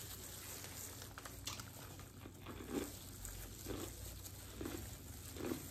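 Soft biting and chewing of corn on the cob, with small faint crunches about once a second.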